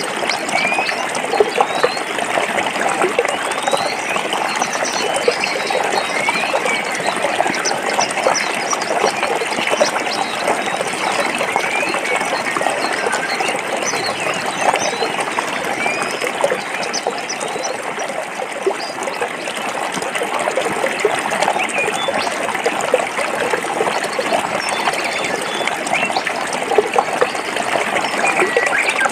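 Forest stream flowing over rocks: steady babbling and gurgling water, with many small splashes.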